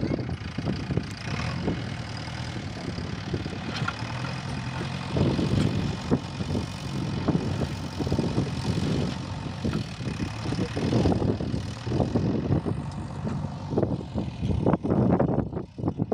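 JCB 3DX backhoe loader's diesel engine running while it works, its level swelling and easing several times as the load changes.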